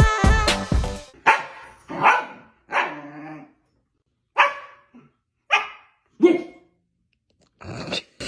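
A dog barking: about six short, separate barks spaced roughly a second apart.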